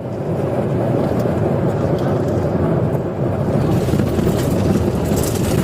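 Loud, steady rumble of a vehicle at speed, engine and road noise.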